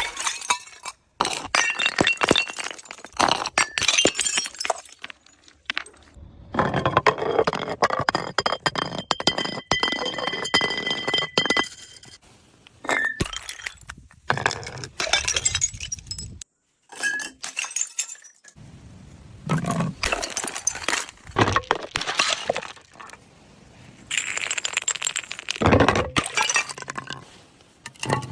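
Glass bottles breaking again and again, in about five bursts of shattering and clinking shards separated by short lulls, with a high glassy ringing through the second burst.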